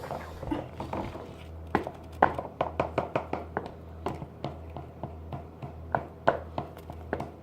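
Irregular light taps and clicks, about two or three a second, from utensils knocking against a container as slime is mixed with crayon colour, over a low steady hum.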